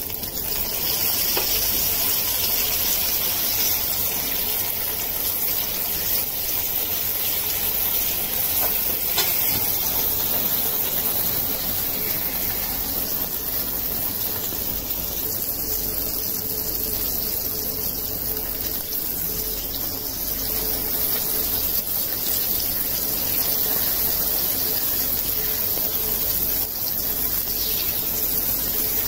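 Tadka of chopped tomatoes, onions and spices frying in hot oil in a small cast-iron pan, giving a steady sizzle.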